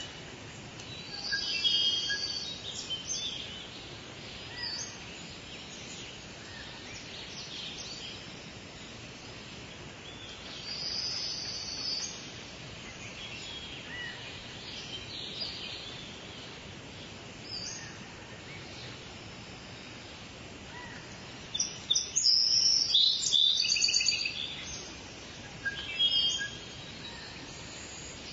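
Lewin's honeyeater giving bursts of rapid staccato, machine-gun-like calls, loudest about three-quarters of the way through, over a steady outdoor background hiss with a few faint chirps.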